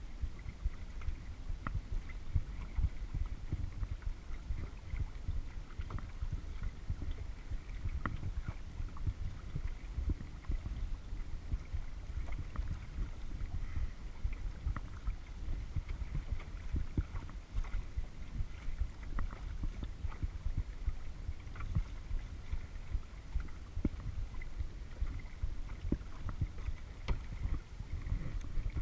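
Kayak on open water: water lapping and sloshing against the hull, with scattered small drips and splashes over a steady low rumble.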